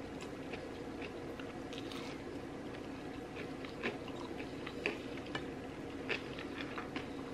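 A person chewing food close to the microphone: irregular wet clicks and small crunches, a few louder ones about four, five and six seconds in, over a steady low hum.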